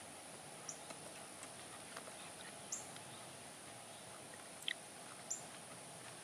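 Quiet outdoor ambience with a few faint, short bird chirps spread through it, over a faint steady high-pitched hum.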